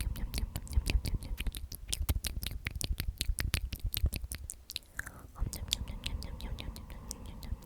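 Close-miked whispered repetition of "omnomnom", made up of many wet mouth clicks and lip smacks, several a second, with a short lull about halfway through.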